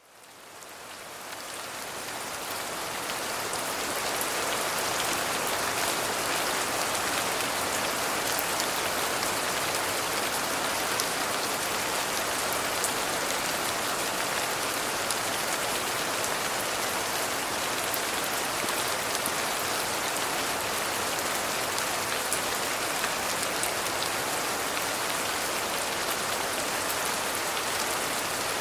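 Steady rain falling, a dense even hiss with fine scattered drop ticks, fading in over the first few seconds and then holding level.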